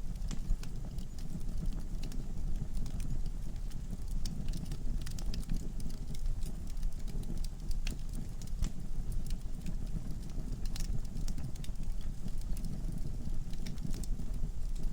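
Wood fire burning in a fireplace: a steady low rumble of flames with frequent small, irregular crackles and pops from the logs.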